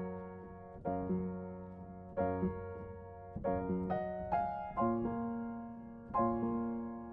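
Background piano music: slow, gentle chords struck about once a second, each ringing and fading away.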